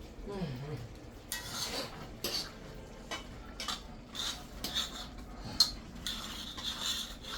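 A metal spoon stirring and scraping in a cooking pot of curry chicken: a run of irregular scrapes and knocks, with one sharp clink and a longer scrape near the end.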